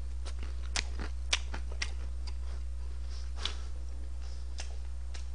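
Close-up chewing of a crisp pan-fried dumpling, with a scatter of short crunchy crackles and wet mouth clicks. A steady low hum sits underneath.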